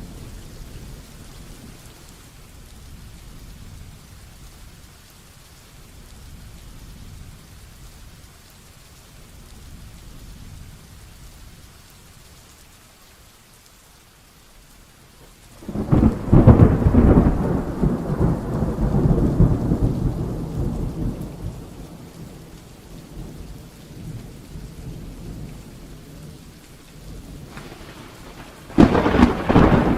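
Steady rain hissing under two thunderclaps. The first cracks about halfway through and rumbles away over several seconds. The second breaks just before the end.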